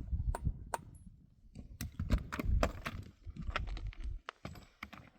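Irregular clicks and knocks, a few a second, over a low rumble that stops about four seconds in.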